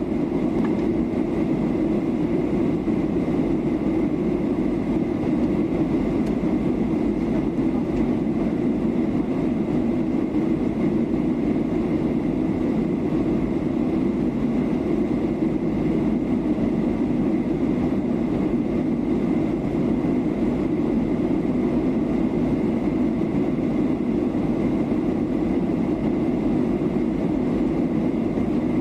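Steady cabin drone of a Boeing 737-800 in flight on its descent, the engine and rushing-air noise heard from inside the passenger cabin, with a faint steady high whine over it.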